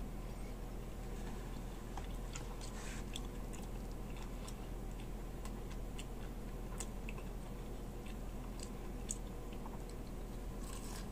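Close-up mouth sounds of a man chewing and biting meat off a fried beef shank (bulalo) bone: scattered wet clicks and smacks over a steady low hum.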